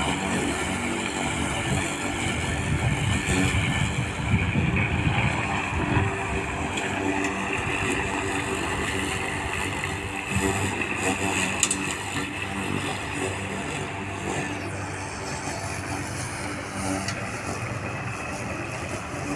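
A vehicle engine running steadily, with a few clicks.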